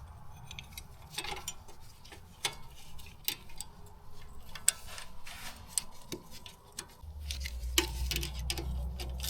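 Scattered light metallic clicks and taps of hand tools and suspension parts being handled, irregular rather than in a steady rhythm. A low hum comes in about seven seconds in.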